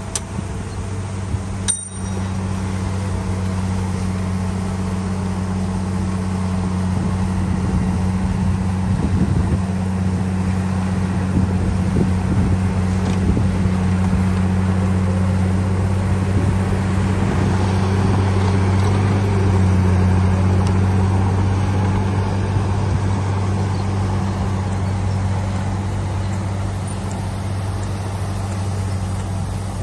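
Heavy earthmoving machine's diesel engine running steadily under load, a low, even drone.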